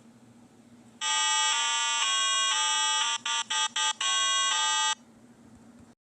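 A short electronic jingle of buzzy, bright tones that step to a new pitch about every half second, with a run of quick short notes in the middle. It stops about five seconds in.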